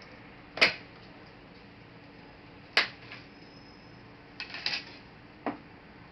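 Sharp clicks and knocks from handling a laptop's plastic case parts and small tools: a loud single click, another about two seconds later, a quick cluster of three, then one more.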